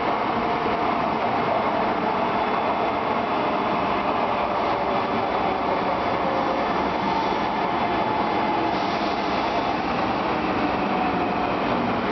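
Shinkansen bullet train running alongside the platform, a steady loud rush of rail and wheel noise with a faint whine of the motors over it.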